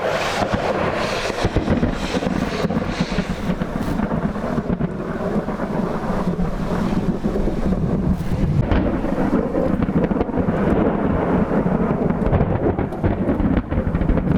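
Thunder rumbling almost without a break from a severe thunderstorm, with rain falling.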